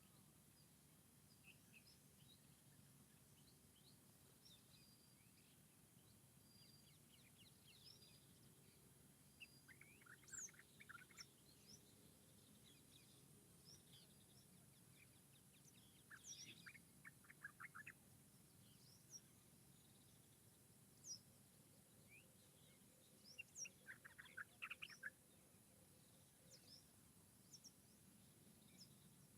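Several small songbirds chirping and trilling faintly, with short bursts of rapid repeated notes about ten, seventeen and twenty-five seconds in, over a faint low background hum.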